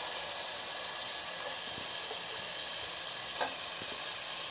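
Raw chicken pieces frying in hot butter with onions and garlic in a pressure cooker: a steady sizzle, with one light knock about three and a half seconds in.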